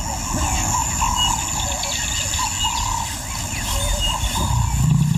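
Savanna ambience: a steady high buzz of insects, a short chirp repeating about once a second, and warbling bird calls over a low rumble. A deeper low sound begins near the end.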